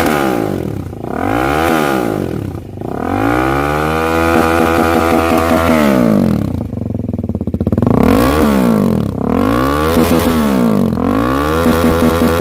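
KTM 390 Duke single-cylinder engine revved through an aftermarket exhaust: a couple of short throttle blips, a longer rev held high for a few seconds, then quick blips about once a second.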